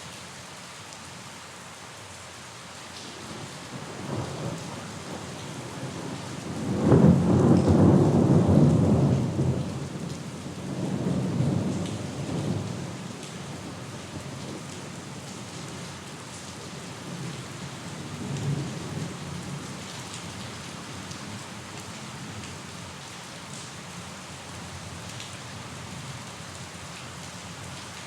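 Steady rain falling, with a roll of thunder that builds about four seconds in, is loudest a few seconds later, then rumbles on in weaker swells before dying away.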